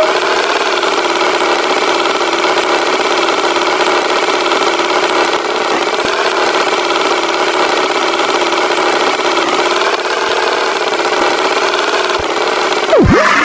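Tractor engine sound effect idling steadily, with a quick swooping glide near the end.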